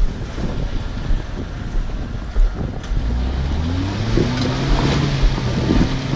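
Off-road 4x4's engine pulling under load, revving up about halfway through and then holding, with scattered knocks and clatter from the vehicle working over rough ground.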